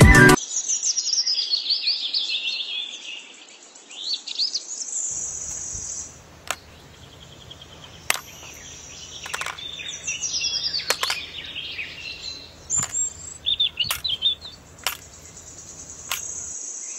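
Songbirds chirping and singing in short gliding high phrases, with several sharp clicks. A faint low hum joins about five seconds in and stops shortly before the end.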